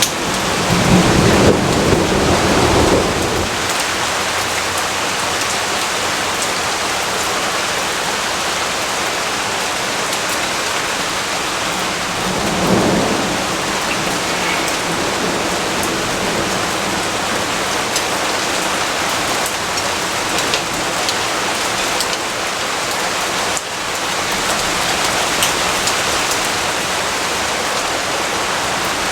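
Steady, heavy rainfall hissing throughout. A rolling rumble of thunder comes in the first few seconds, and a shorter, fainter rumble comes a little before the halfway point.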